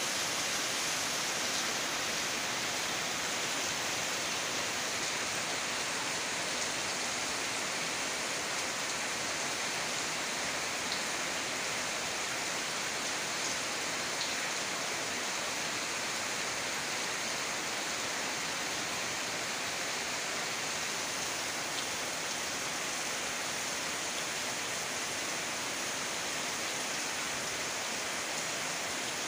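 Steady heavy rain pouring down onto a flooded yard and the surrounding plants, an even hiss with a few faint drip ticks.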